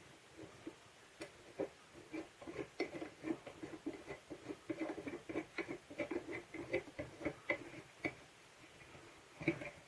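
Rapid small clicks and knocks of plastic tape-gun parts being handled and fitted together, several a second, dying away about eight seconds in, with a couple more near the end.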